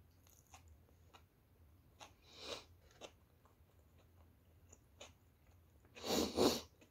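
A person chewing a mouthful of sandwich on soft homemade bread, with small mouth clicks. There are two louder noises: a short one about two and a half seconds in, and a longer double one near the end.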